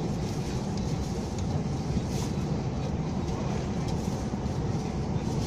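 Cabin noise of a KTM ETS electric train running along the line: a steady low rumble with no distinct knocks.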